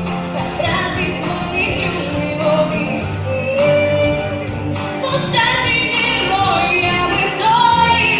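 A young girl singing a pop ballad over a backing track, holding some notes.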